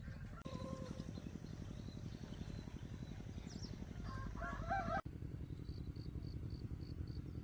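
A small engine running steadily, with chicks or birds chirping over it and, from about halfway, a high insect-like chirp repeating about four times a second.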